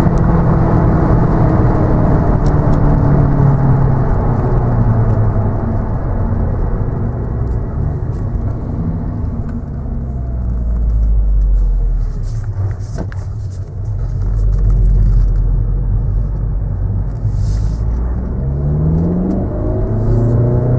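Audi A1's 1.4 TFSI supercharged and turbocharged four-cylinder petrol engine running with a deep road rumble. Its pitch falls slowly over the first few seconds, then rises quickly near the end as the revs climb.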